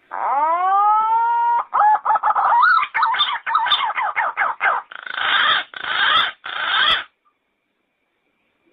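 Yellow-footed green pigeon calling: a long whistle that rises and then holds, followed by a quick run of short warbling notes and three rougher, harsher notes. The call stops about seven seconds in.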